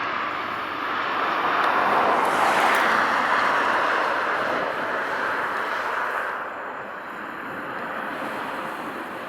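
Boeing 777's GE90 turbofan engines roaring under takeoff power. The roar swells to its loudest about two to three seconds in, then fades and thins out in the second half, like a receding rush of wind.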